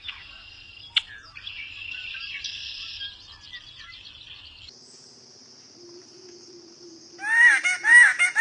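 Wild birds chirping over a buzz of insects. About five seconds in, the sound changes abruptly to a steady high insect drone. Near the end a bird gives a loud series of repeated, arching calls, about two a second.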